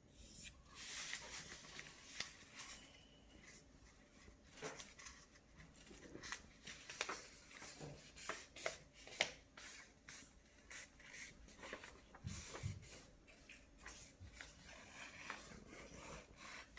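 A sheet of paper being folded and creased by hand: faint rustling and rubbing with many light, scattered crinkles and ticks.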